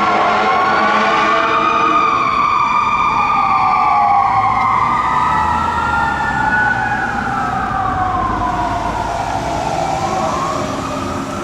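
Fire engine siren wailing in long, slow rises and falls, with two siren tones weaving across each other and a truck's low rumble underneath in the middle.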